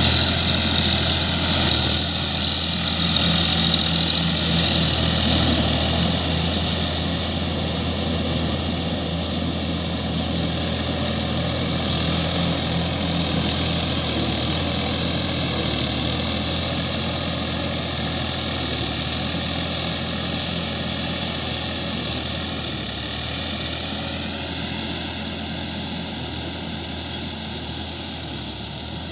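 Sonalika DI-50 RX tractor's diesel engine running steadily, slowly growing quieter, with a slight rise in pitch late on.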